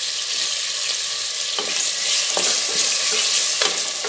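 Chopped onion and freshly added tomato sizzling in hot oil in a pressure cooker while being stirred. The spatula scrapes and knocks against the pot a few times, and the sizzle grows louder about halfway through.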